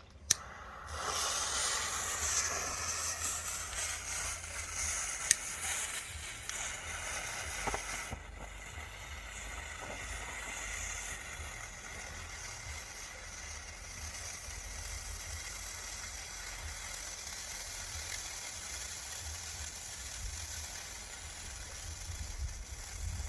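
DB Fireworks 'Snakepit' ground firework burning: a sharp pop as it lights, then a dense, crackling hiss that is loudest for the first eight seconds, with one sharp crack about five seconds in. After that it settles into a steadier, slightly quieter hiss.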